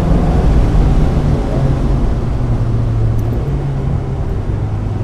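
1995 Mazda Miata's four-cylinder engine running under load on a wet track, its pitch easing down in steps with a brief rise about three and a half seconds in. A steady rush of road and spray noise sits underneath.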